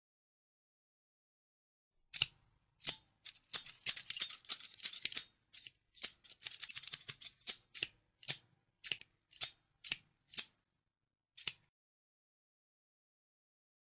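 Scissors snipping close to the microphone: after about two seconds of silence come a few single snips, two quick runs of rapid cuts, then slower single snips about half a second apart that stop a couple of seconds before the end.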